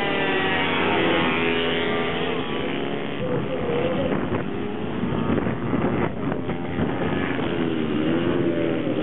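Several minibike racing engines revving together, their pitches rising and falling over one another as the bikes accelerate and slow on track.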